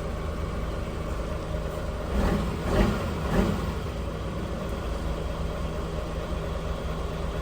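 Delivery truck's engine idling steadily, with a few brief louder sounds between about two and three and a half seconds in.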